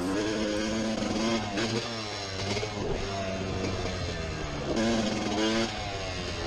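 Motocross bike engine revving, its pitch climbing and dropping again and again as the throttle is worked on the track.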